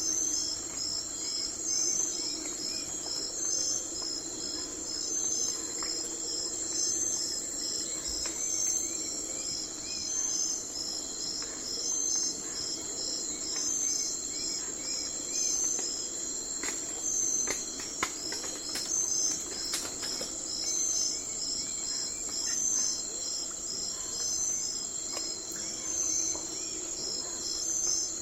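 Night forest ambience dominated by crickets and other insects: a steady high-pitched trilling with chirps repeating at an even rhythm, and a few faint bird calls lower down.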